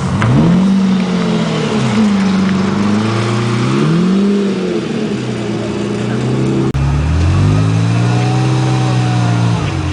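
Sports car engine being revved in the stationary car: the pitch swoops up and falls back again several times. About two-thirds of the way through the sound cuts off suddenly and an engine revs up again, then holds a steady note.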